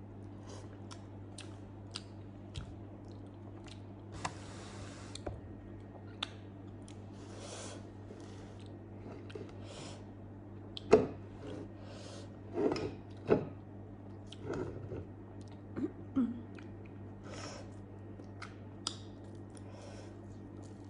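Close-miked chewing of soft grilled eggplant: wet mouth clicks and lip smacks, with a few louder bites and smacks a little past the middle and a brief hiss about four seconds in. A steady low hum runs underneath.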